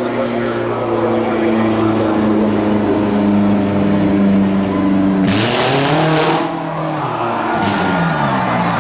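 Monster truck engine running loud and steady, then revving hard about five seconds in, its pitch dropping and climbing again as the throttle is worked near the end.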